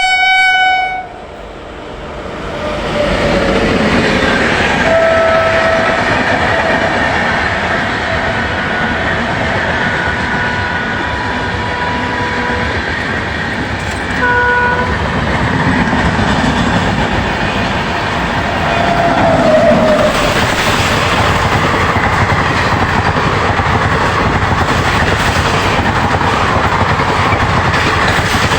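Indian Railways train: a short horn blast right at the start, then the train running past with a steady loud rumble and wheel clatter. A second short horn blast comes about halfway through.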